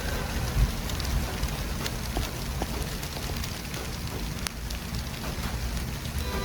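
City street traffic ambience: a steady low rumble of vehicles under an even hiss, with scattered light ticks.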